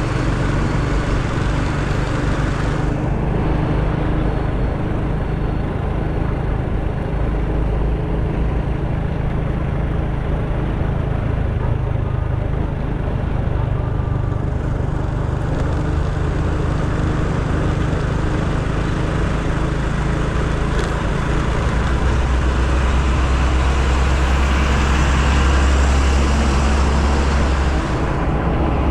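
Motorcycle under way in traffic: a steady engine with road noise. A deeper, louder rumble comes in from about 22 to 28 seconds in.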